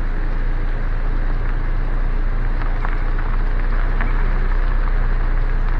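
Steady low rumble inside a car creeping along at low speed, with a few faint scattered ticks.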